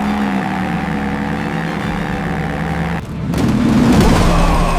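Vehicle engine running steadily, its pitch sagging slightly; about three seconds in it drops out for a moment, then comes back as a loud, rough surge that eases off near the end.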